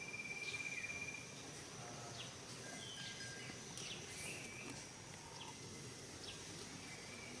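Forest ambience: a steady high insect drone with short, high chirping bird calls repeating. A louder trill sounds during the first second.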